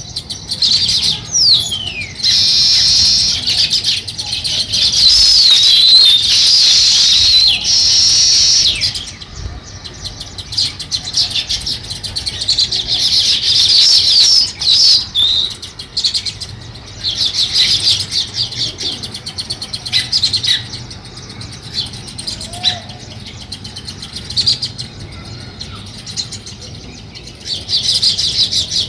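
Sparrows chirping. A dense, busy chorus of high chirps runs for about the first nine seconds, then thins to scattered bursts of chatter, with a louder burst near the end.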